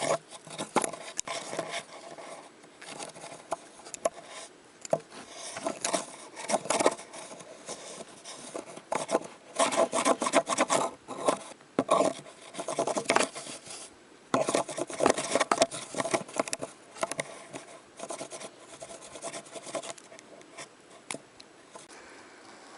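A pet scratching and rubbing at a box, with scraping and rasping strokes in irregular bouts that come and go.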